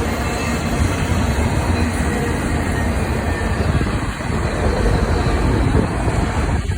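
Freight train rolling past, a steady loud rumble of steel wheels on the rails.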